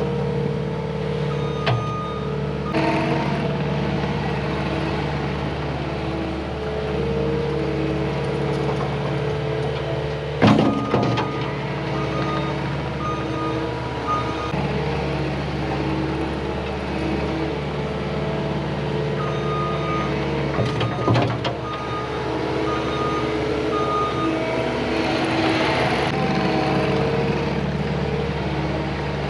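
Cat 259D compact track loader's diesel engine running steadily, its reverse alarm beeping in several stretches. Two loud clanks, about a third and about two-thirds of the way through.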